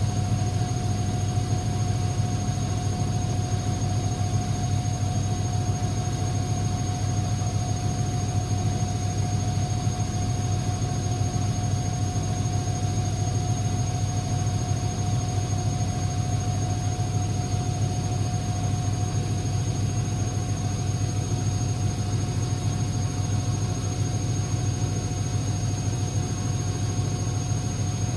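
Constructa Energy 1000 washing machine running with a steady motor hum, low and even, with a faint constant whine above it.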